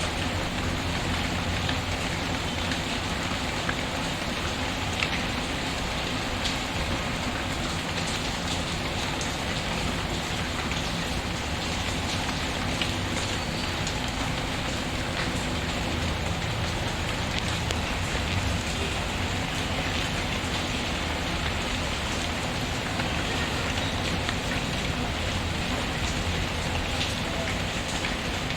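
Steady rain falling, an even hiss with scattered small pops and clicks through it, like a wood fire crackling in the mix.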